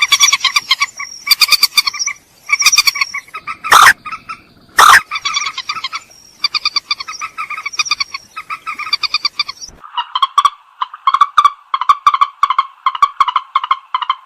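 Rail (mandar) calls: bouts of rapidly repeated harsh, croaking notes, broken by two very loud harsh calls about four and five seconds in, then a faster run of notes from about ten seconds on.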